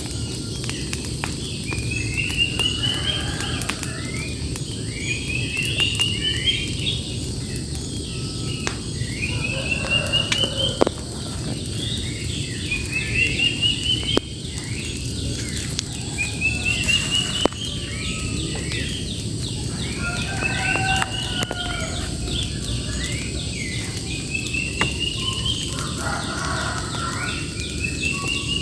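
A songbird repeating a short song phrase of quick notes climbing in pitch every few seconds, over a steady low rumble with a few sharp clicks.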